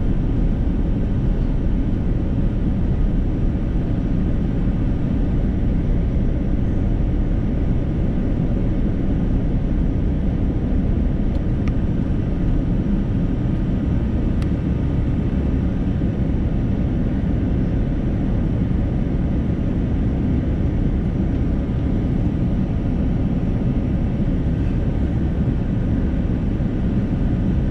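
Steady cabin noise inside an Airbus A330-300 airliner in flight: a constant low rush of airflow and the Rolls-Royce Trent 700 engines, even in level throughout.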